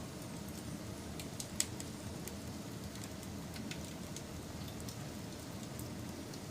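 Wood fire burning with a steady low rush and irregular crackles and snaps, one sharper pop about a second and a half in.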